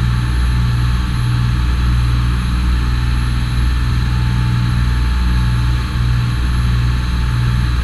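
Charter fishing boat's engine running at a steady low drone.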